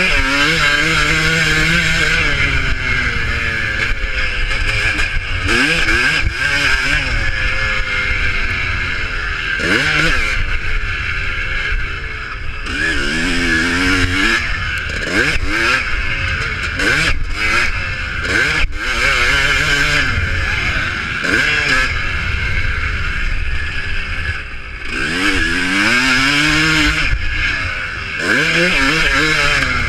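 Motocross motorcycles racing, their engines revving up and dropping back again and again, several bikes overlapping at times.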